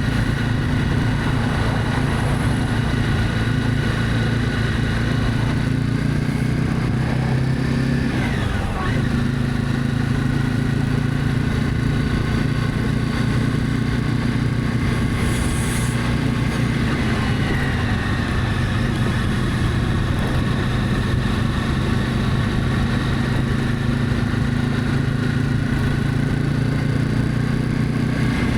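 Honda CB300F single-cylinder motorcycle engine running steadily while riding, with a brief break in the engine note about eight seconds in.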